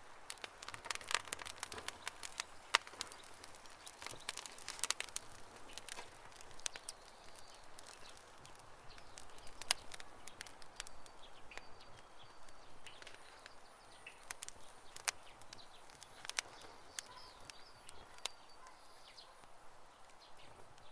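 Wood campfire crackling, with irregular sharp pops and snaps over a soft hiss; the pops come thickest in the first few seconds, then thin out to scattered snaps.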